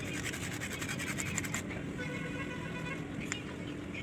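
A fast run of short scratching clicks, about nine a second, for the first second and a half, over a steady low hum.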